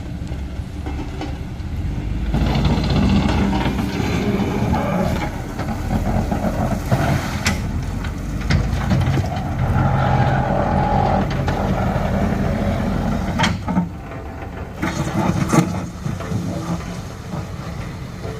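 Heavy diesel vehicle engines running and working under load, with a few sharp knocks in the second half.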